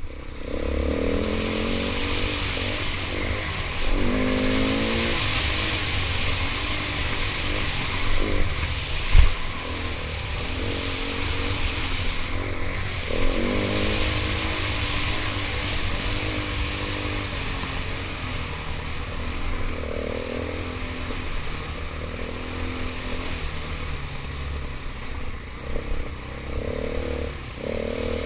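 KTM 500 EXC single-cylinder four-stroke dirt bike being ridden on a rough trail, its engine pitch rising and falling again and again as the throttle opens and closes, over a steady hiss. There is a sharp knock about nine seconds in.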